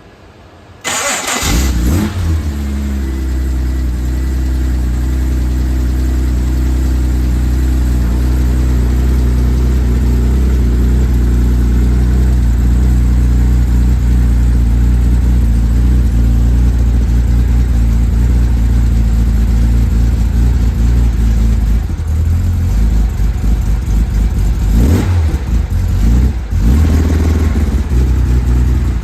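A 1969 Jaguar E-Type's 4.2-litre straight-six, bone cold, is cranked on the starter and fires up about a second in, then settles into a steady idle. Near the end there are a couple of brief rises and falls in engine speed.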